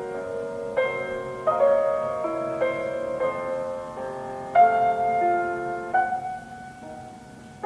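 Solo piano playing a slow, gentle classical piece, with chords and melody notes struck about once a second and left to ring.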